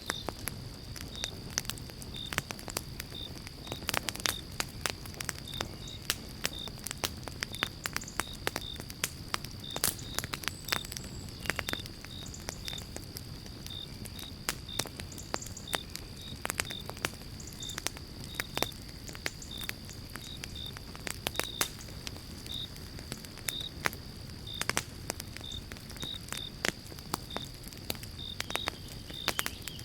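Pine-log campfire crackling and popping irregularly over a low steady rumble. A steady high insect trill and small chirps about twice a second run underneath.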